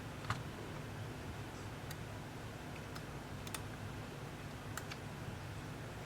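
Small repair tools and parts tapping and clicking on a work surface during tablet disassembly: a few sparse, sharp light clicks, about one every second or so, over a steady low hum.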